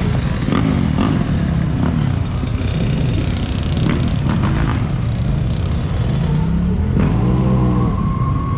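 Loud V8 muscle-car engines running and being revved, the revs rising and falling, with scattered sharp clicks. About seven seconds in, an engine revs up and a steady high whine joins it.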